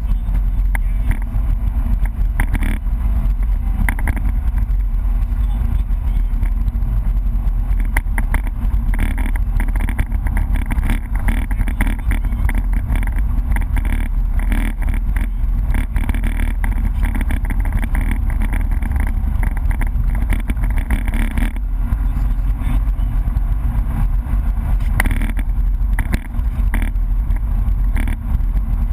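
BMW E30 rally car driven hard, heard from inside the cabin: the engine running under load, with steady tyre and road noise.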